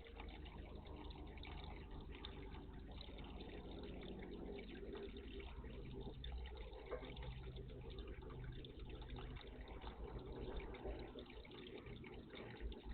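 Steady splashing and running of water in a bird bath, a continuous rushing noise with a low rumble underneath.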